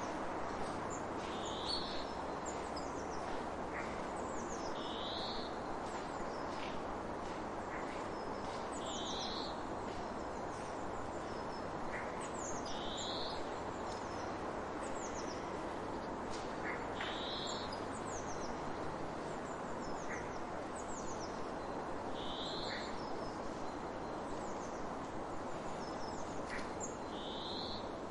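Birds calling over a steady rushing background: a short call repeats about every four seconds, mixed with quick falling high-pitched notes and brief chips.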